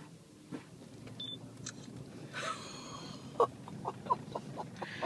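Low rumble of a truck's engine and tyres heard from inside the cab as it creeps forward slowly. Scattered sharp clicks and knocks come in the second half.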